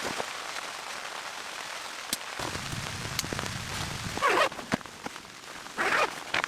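Snow and sleet pattering steadily on a surface, like rain, with a few sharp clicks and two short, louder crunches about four and six seconds in.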